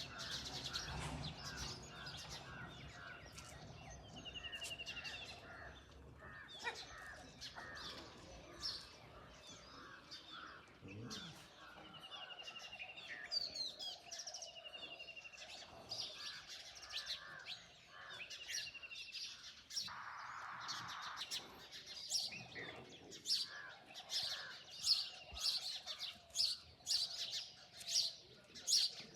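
Several birds chirping and singing together in an early-morning chorus: many sharp high chirps with short repeated trills now and then, getting louder and busier over the last several seconds. A brief rush of noise about twenty seconds in.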